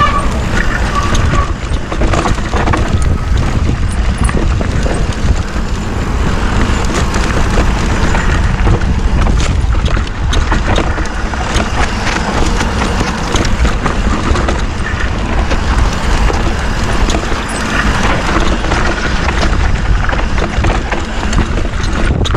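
Mountain bike riding over a rocky trail: a continuous rattle and clatter of tyres, chain and frame, with many sharp knocks as the wheels hit rocks. Wind rumbles over the action-camera microphone.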